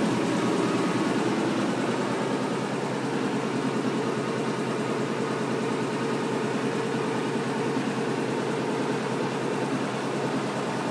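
Washing machine running, making a steady, even mechanical noise that holds at one level throughout.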